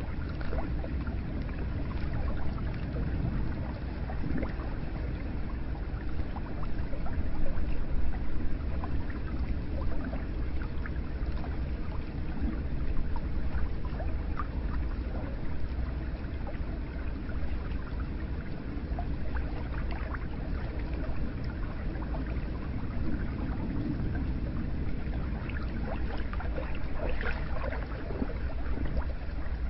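Hot spring water flowing and trickling steadily, with many small splashes and drips.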